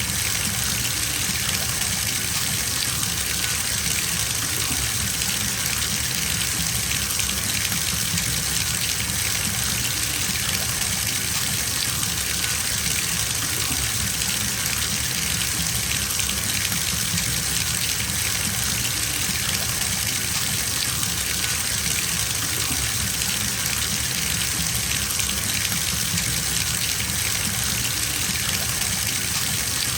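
Bathtub filling from the tap: a steady gush of running water splashing into the tub, unchanging throughout.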